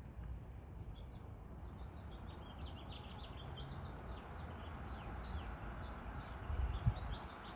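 Small birds chirping, many short quick high notes packed close together, over a steady low rumble. A single low thump comes near the end.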